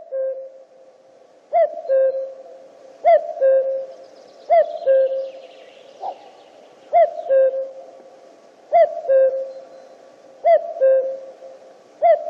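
Common cuckoo (Cuculus canorus) giving its two-note "cu-ckoo" call over and over, the second note lower than the first, about once every one and a half seconds.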